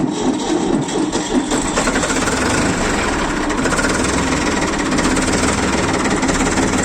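Ford tractor's diesel engine being cranked on the starter, catching about a second and a half in and settling into a steady run after standing idle for a long time.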